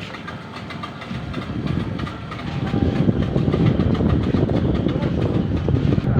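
Speedboat's twin 115 hp outboard motors running, the sound growing much louder about two and a half seconds in.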